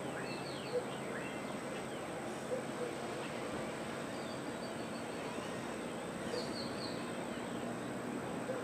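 Several wild birds calling over a steady background hiss: scattered quick, downward-sliding chirps, and a rapid series of short, high notes that comes twice. A few brief low notes stand out here and there, and a faint steady high tone runs underneath.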